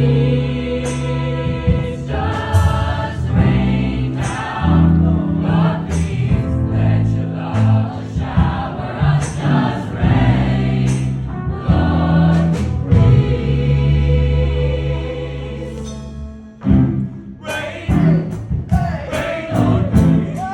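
An a cappella choir singing sustained chords over a low, held bass line, with short crisp ticks scattered through it. The sound fades down about three-quarters of the way through, then a new, busier passage begins.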